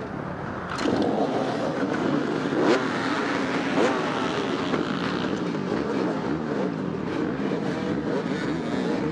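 Several dirt bike engines revving together, their pitches rising and falling and overlapping; the sound jumps up suddenly about a second in and stays loud.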